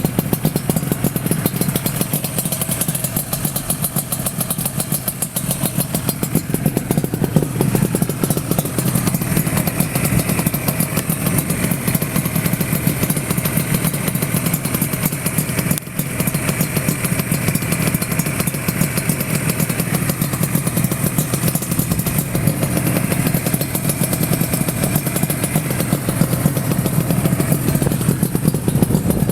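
Yamaha RZ250 fitted with an RZ350 liquid-cooled two-stroke parallel-twin engine, running steadily near idle through YUZO cross expansion-chamber exhausts.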